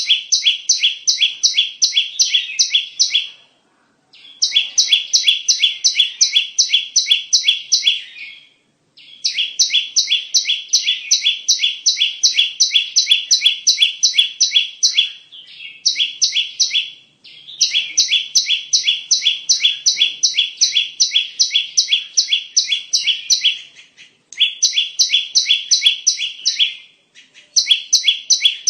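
Bar-winged prinia (ciblek) lure call: rapid runs of sharp, evenly repeated chirps, about four a second, in phrases of a few seconds broken by brief pauses.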